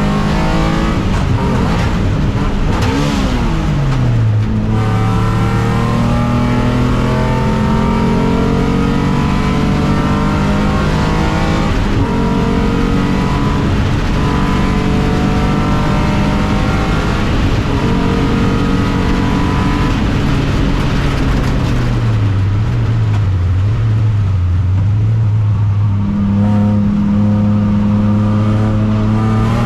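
Alfa Romeo 156's 3.0 V6 race-car engine running under load, its pitch rising and falling with the revs, with a sharp drop about three seconds in and an uneven, wavering stretch near the end.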